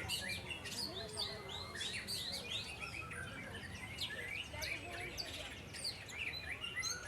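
White-rumped shama (murai batu) singing a fast, varied song of quick rising and falling chirps and whistles, with hardly a pause.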